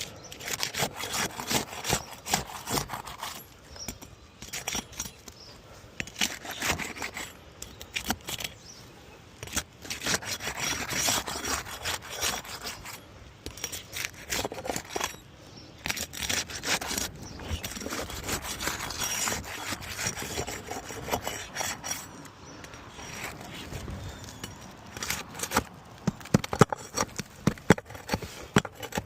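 Irregular scraping and rubbing against asphalt roof shingles, with scattered sharp clicks and knocks, as the hail-damaged shingle is worked on for repair.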